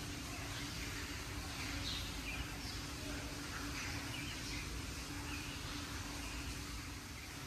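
Small birds chirping: scattered short, high calls, a few every second, over a steady low hum.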